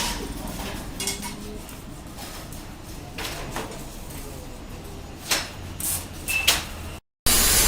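Scattered knocks and clatter of hard parts being handled, a few seconds apart. Near the end the sound cuts out briefly and a loud steady hiss starts.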